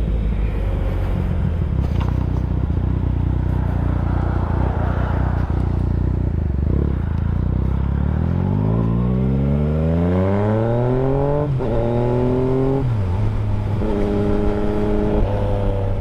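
Yamaha FZ-09's three-cylinder engine running steadily at low revs, then accelerating with a rising pitch from about the middle. It drops sharply at a gear change, climbs briefly again and drops at a second shift, then holds a steady pitch and begins to rise once more near the end.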